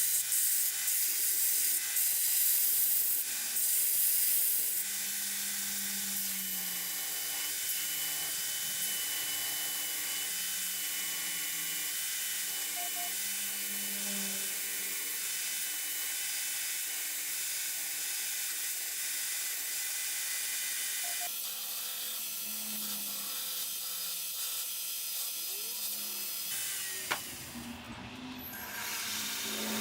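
Belt grinder running, with abrasive hissing against the work during grinding and shaping. It stops shortly before the end.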